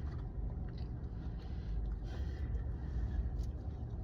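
Steady low rumble of an idling car heard from inside the cabin, with a few faint clicks of someone eating.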